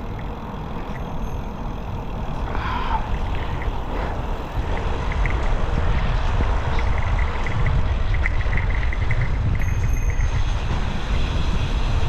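Wind buffeting the microphone and tyre noise from a moving bicycle, a steady low rumble that gets louder about four to five seconds in.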